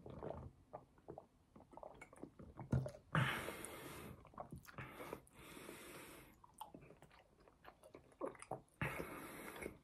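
A person chewing French fries close to the microphone, with small wet mouth clicks and crunches. Three louder rushes of noise, each about a second long, come about three, five and nine seconds in.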